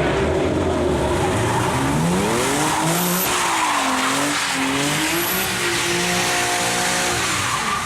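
Car engine revving up and down several times while the tires squeal and skid. Near the end the revs hold steady for about a second, then drop off.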